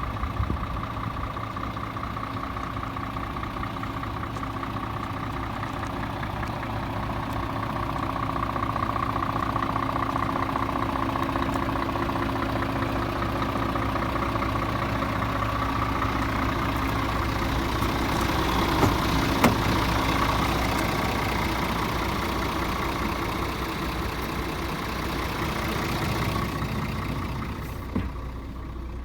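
Scania R 450 truck's 13-litre inline-six diesel engine idling steadily, with a couple of sharp knocks about two-thirds of the way through and another near the end.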